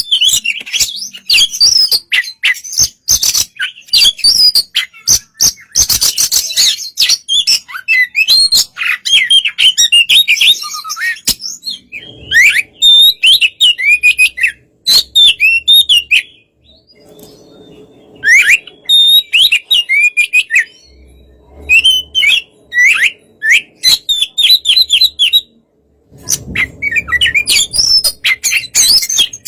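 Oriental magpie-robin (kacer) singing loudly: rapid varied phrases of slurred whistles, sharp clicking chatter and quick repeated notes, broken by two short pauses.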